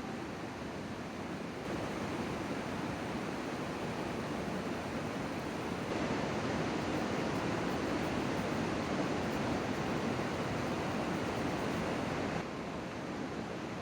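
Steady outdoor rushing noise, stepping up in level about two seconds in and again about six seconds in, then dropping abruptly near the end.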